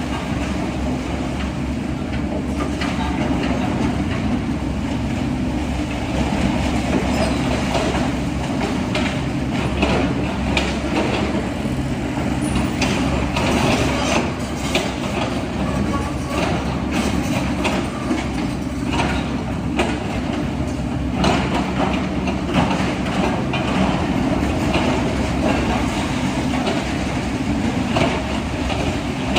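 Heavy excavator diesel engine running steadily, with frequent irregular knocks and clanks over it.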